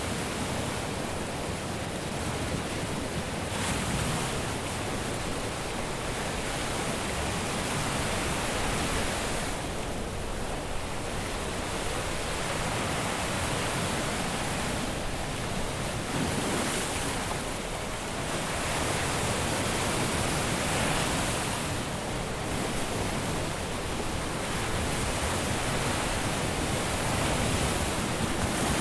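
Surf breaking and washing on a beach: a steady rush of water that swells and eases every few seconds as waves come in.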